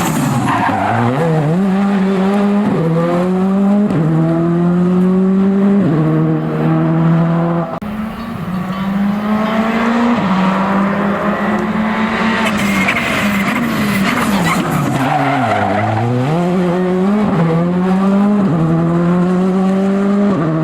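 Rally car engine accelerating hard up through the gears, its pitch climbing and dropping back at each upshift. About three-quarters of the way through it slows for a corner, the pitch falling away to a low, then it pulls up through the gears again.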